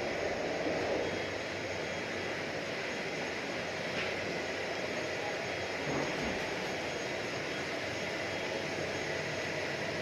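Steady rushing noise of a jet airliner, with a faint high whine held throughout; two slight bumps come about four and six seconds in.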